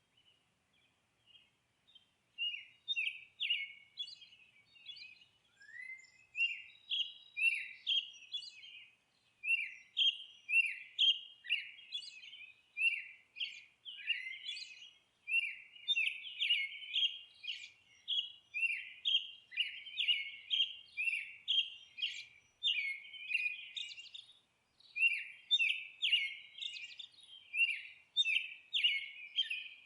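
Songbirds chirping and twittering, a quick, steady run of short high chirps several times a second, starting after a moment of near quiet.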